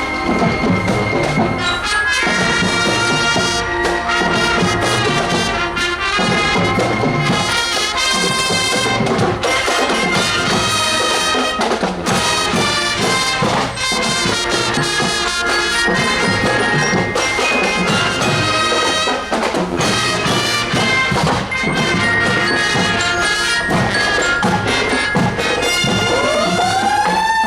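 Marching show band playing a tune, trumpets and trombones over a steady drum beat. Near the end a single tone sweeps sharply upward and holds.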